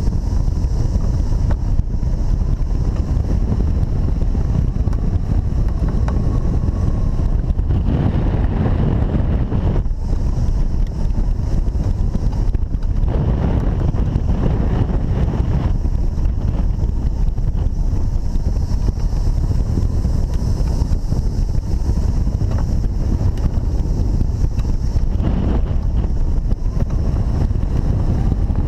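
Strong wind buffeting the camera's microphone: a loud, steady, low rumbling rush that goes on without letting up.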